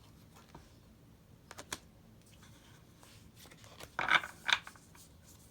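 Tarot cards being handled on a table: a couple of light clicks, then a short burst of scraping and rustling about four seconds in, as cards are slid and turned over.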